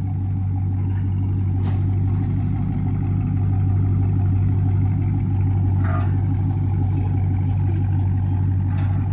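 Dodge Charger Scat Pack's 392 (6.4 L) HEMI V8 idling steadily through a straight-piped exhaust with the mufflers and resonators removed, giving a loud, deep, even drone.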